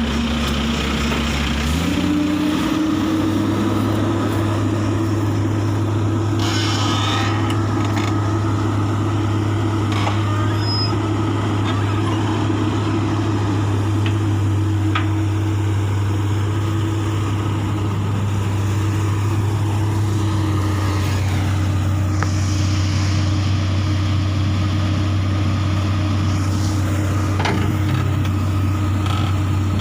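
Komatsu PC200 excavator's diesel engine running, revving up about two seconds in and then holding a steady higher speed, with a few brief knocks over it.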